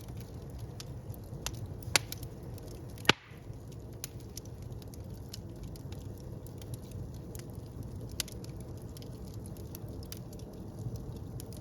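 Wood fire burning in a fireplace: a steady low rumble of flames with frequent small crackles, and two loud sharp pops about two and three seconds in.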